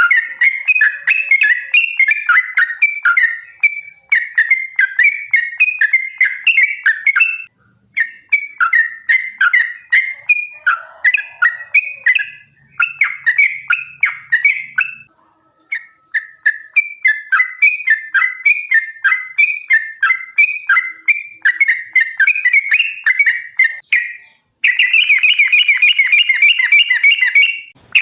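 Yellow-vented bulbul (trucukan) singing: long runs of rapid, bubbly chattering notes with a few short breaks, turning into a denser, even trill near the end. It is a loud, full "gacor" song of the kind played to lure other trucukan into answering.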